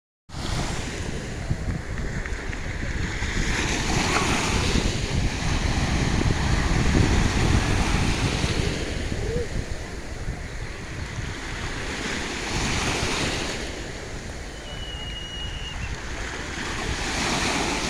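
Sea waves washing onto the shore: a steady surf hiss that swells as each wave breaks, about every four to five seconds.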